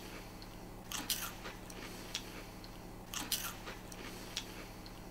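Mouths chewing crunchy Cheez-It cheese crackers, with a few faint crisp crunches now and then.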